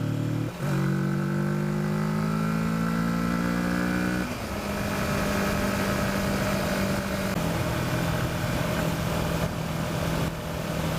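Kawasaki Versys motorcycle engine pulling through the gears: a short break for a gear change right at the start, the pitch climbing for about four seconds, a sudden drop at the next gear change, then running steadily with a small drop in pitch a few seconds later. Wind noise runs underneath.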